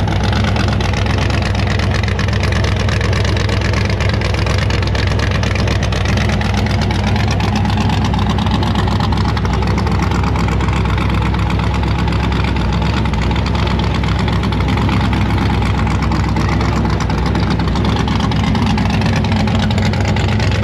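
An engine running steadily, with a fainter higher tone that slowly dips and rises.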